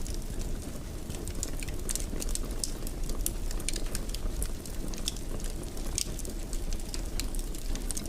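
Wood fire in a stone fireplace crackling, with frequent irregular sharp pops over a steady low rumble.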